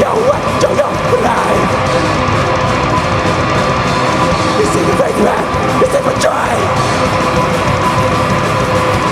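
Live heavy band playing loud, distorted music, with shouted vocals over it.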